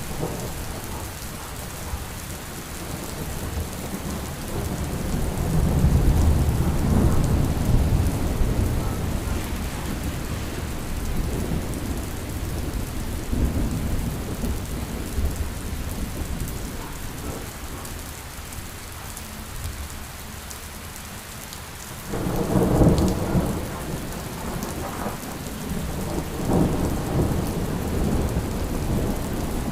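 Steady rain on a surface with rolling thunder: a long low rumble swelling several seconds in, and a sharper clap of thunder about three quarters of the way through that rumbles on to the end.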